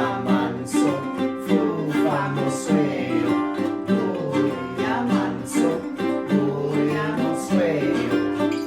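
Voices singing a song in Sesotho over a steady plucked-string accompaniment, guitar-like in tone.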